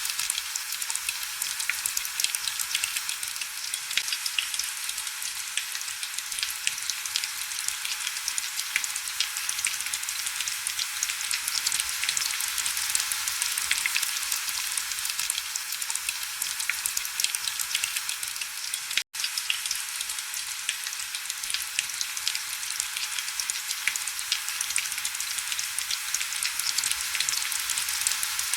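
Heavy rain: a steady, dense hiss full of fine crackling drop ticks, with almost no low rumble. It cuts out for a split second about two-thirds of the way through.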